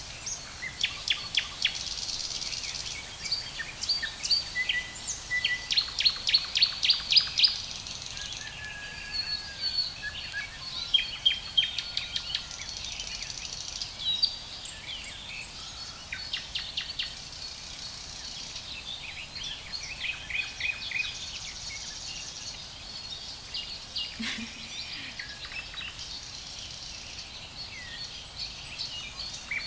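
Birds chirping and singing in quick runs of short repeated notes, the loudest run coming about six to seven seconds in, over a faint steady background hiss.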